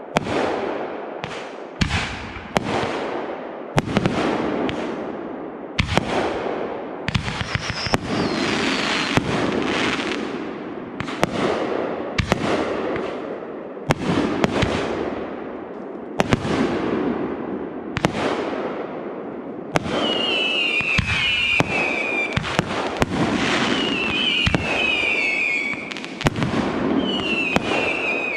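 Aerial fireworks display: a rapid, continuous series of sharp shell bursts, each trailing off. In the last third, several short falling whistles sound among the bangs.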